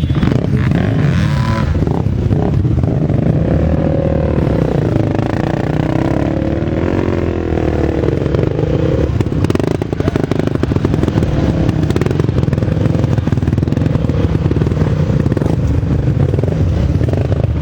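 Racing motorcycle engines revving as the bikes pass, their pitch gliding up and down over a steady, loud rumble.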